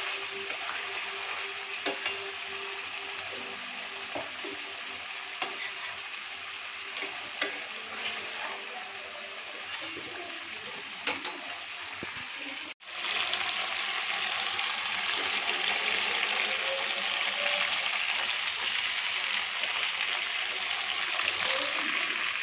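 Chicken frying in an aluminium kadhai, sizzling steadily while a metal spatula stirs it with scattered scrapes and knocks against the pan. A little past halfway the sound cuts, and the sizzle comes back louder and steadier.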